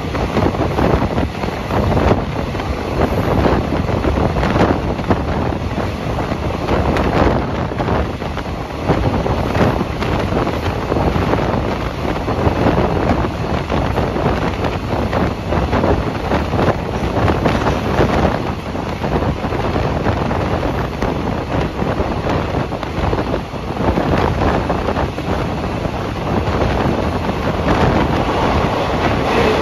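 A passenger train in motion, heard from on board: a steady rumble of wheels on the rails with faint irregular knocks, and wind blowing hard across the microphone.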